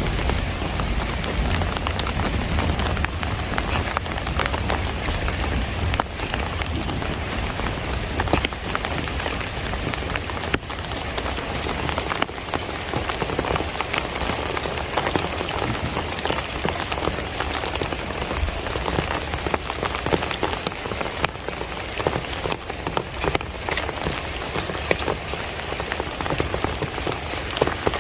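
Steady rainy-season rain falling, with the clicks of many separate drops striking close by. A low rumble under it fades away over the first several seconds.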